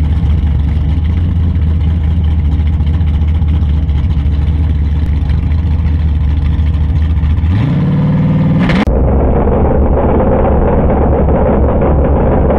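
Drag-race Nova's V8 idling steadily, then revving up with a rising pitch about seven and a half seconds in. Near nine seconds the sound cuts suddenly to a duller, noisier engine running steadily.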